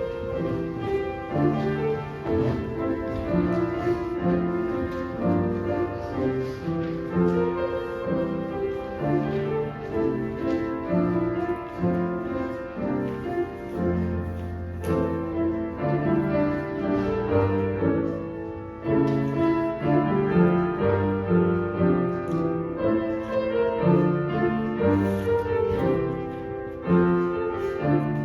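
Piano playing a hymn tune in full chords over a moving bass line, without singing.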